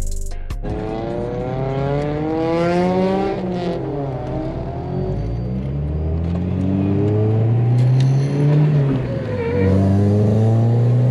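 Car engine accelerating through the gears: its pitch rises, drops at a shift about three and a half seconds in, climbs again, and drops at another shift near the end before rising once more. A music beat cuts off just at the start.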